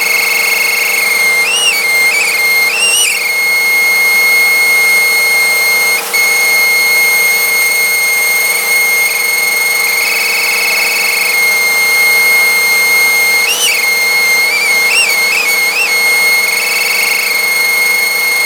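Vacuum cleaner running with a small piece of paper caught at its suction, making a steady high whistle over the motor's hum. The whistle wobbles up and down in pitch in short yelps a few seconds in, then again about two-thirds through, in a quick run, and near the end.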